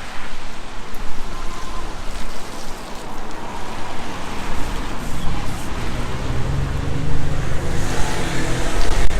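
A motor vehicle driving past on a city street, its engine growing louder in the second half and loudest near the end, over a steady street noise.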